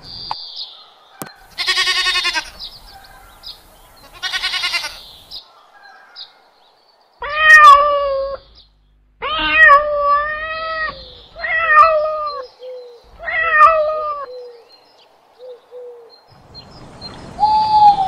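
A horse whinnying twice, followed by a domestic cat meowing four times in a row.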